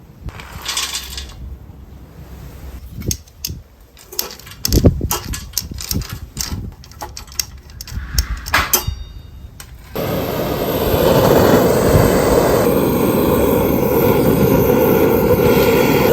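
Scattered clicks and knocks, then from about ten seconds in a sudden, loud, steady rushing noise.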